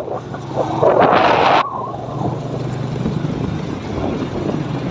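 Motorcycle running at a steady low hum while riding, with wind rushing over the microphone; a strong gust about a second in is the loudest part.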